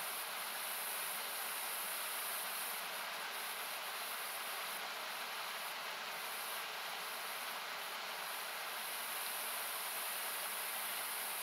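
Steady rushing of a nearby river or waterfall, an even hiss that masks almost everything else, its sound thinned in places by equaliser cuts.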